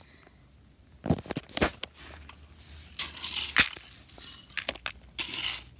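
Toy dump truck handled and worked through loose fill: a few sharp knocks starting about a second in, then a stretch of scraping and crunching noise.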